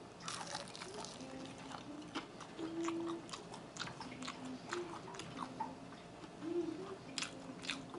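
A person chewing a buffalo chicken wing close to the mic, with irregular wet mouth clicks and smacks.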